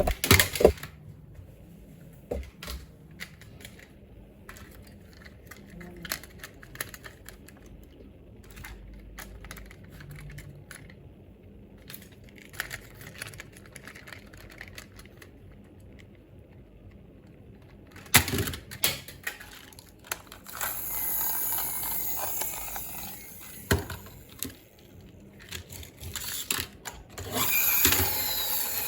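Plastic toy cars being handled, with scattered clicks and knocks, then a few seconds of steady mechanical noise about two-thirds of the way through and again near the end.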